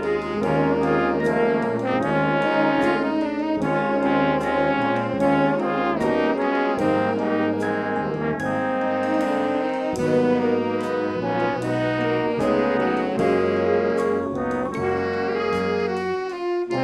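A brass band with trombones and trumpets playing a tune over a steady drum beat.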